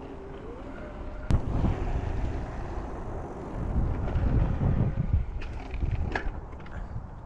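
Riding an electric mountain bike: wind buffeting the action-camera microphone over the rumble of tyres rolling on dirt. There is a sharp click about a second in and a few lighter knocks near the end.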